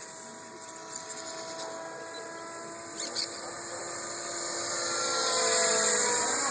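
Radio-controlled AS350 Esquilo scale model helicopter running, its motor and rotor making a steady whine that grows louder from about two-thirds of the way in.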